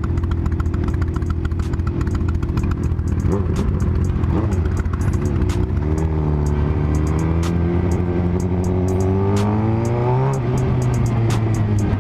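Motorcycle engine running under way, revving up with its pitch climbing for about four seconds, then falling away suddenly about ten seconds in.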